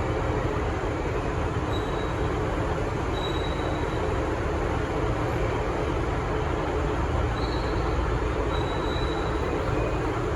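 V/Line VLocity diesel multiple unit running with a steady diesel rumble. A few faint, brief high-pitched squeals come and go over it.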